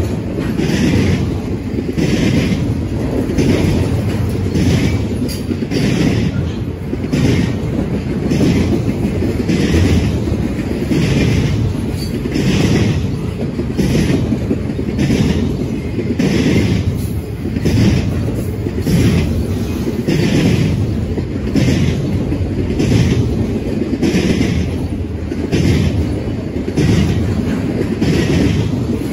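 BNSF double-stack intermodal train's well cars rolling past at close range: a steady rumble of wheels on rail, with wheels clacking over rail joints in a regular beat about once a second.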